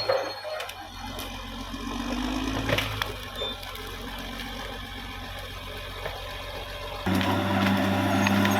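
Caterpillar D6R XL bulldozer's diesel engine running as the dozer crushes vegetation, with wood splintering and sharp cracks near the start and about three seconds in. The engine gets suddenly louder about seven seconds in.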